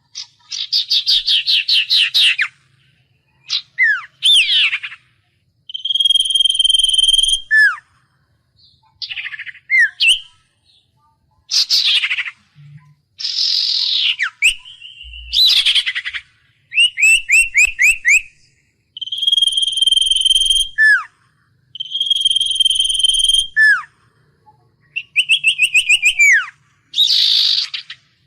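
A Huýt Cô songbird singing loudly and close, in varied phrases separated by short pauses: fast rattling trills, a held clear whistle that ends in a quick downward slur, and sweeping whistled notes. The held whistle with its falling tail comes back several times.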